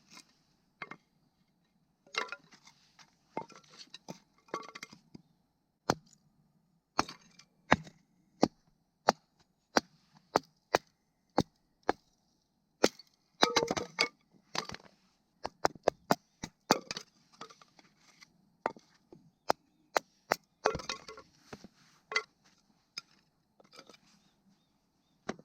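Wood cracking and snapping in sharp, irregular cracks, some single and some in quick clusters.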